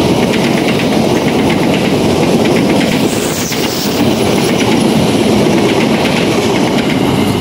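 Long-distance passenger train's coaches passing close by, a steady loud rumble of wheels on the rails with a rapid clatter over the rail joints.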